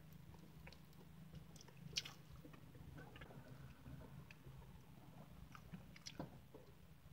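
Faint mouth sounds of someone chewing soft frosted cupcake, with scattered small wet clicks and smacks. A sharp click comes about two seconds in.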